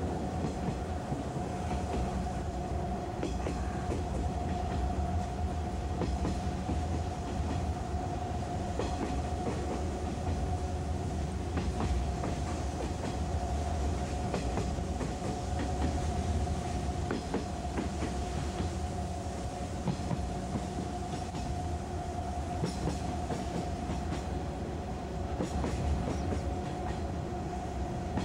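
Interior running noise of a 185-series electric train heard from inside the passenger car as it runs down the Usui Pass grade toward Yokokawa. A steady low rumble and a steady high whine are broken by irregular clicks of the wheels over rail joints.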